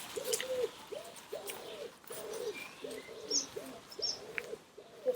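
Pigeons cooing in a steady run of short, low hoots, about two to three a second, with a couple of brief high chirps from small birds in the middle.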